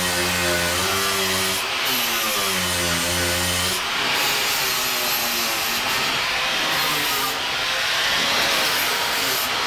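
Electric power tool working on the buggy's seat-mount metalwork, its motor tone sagging and recovering in pitch under load. About four seconds in the motor tone fades, leaving a steady hiss of cutting or grinding.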